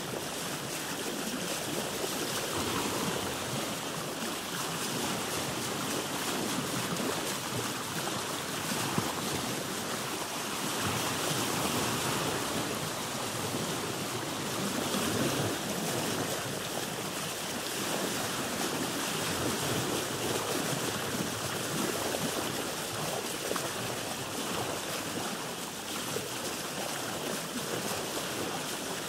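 Seawater sloshing and lapping against a boat's hull, a steady wash that swells and eases every few seconds.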